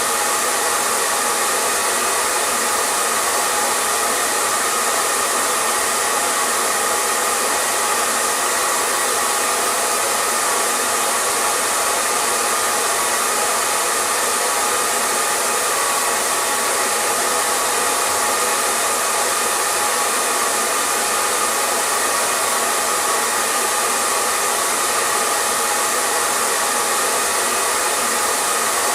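Electric hair dryer running continuously at a constant setting: a steady airy rush of blown air with a faint motor whine in it, never changing.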